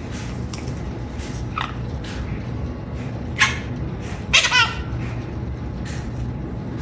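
A parrot giving a snicker: three short, high-pitched, laugh-like calls, the last one longer and wavering, over a steady low background hum.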